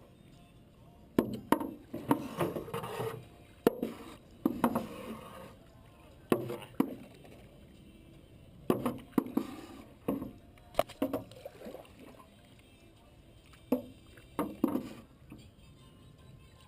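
Paddles knocking against the side of a small boat and splashing in the water, in irregular bunches of strokes.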